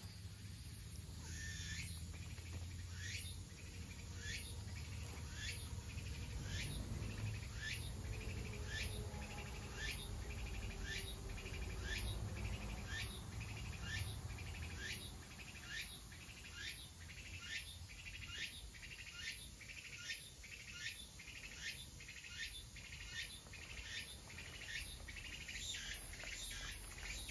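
A bird calling over and over in a long series of short downward-sliding notes, about one and a half a second, coming a little faster near the end, over a low background rumble.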